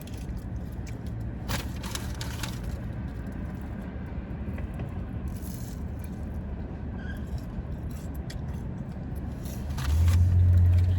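Low steady hum of a car's idling engine heard inside the cabin, with scattered rustles and clicks of fast-food packaging being handled. Near the end a louder low rumble swells for about a second.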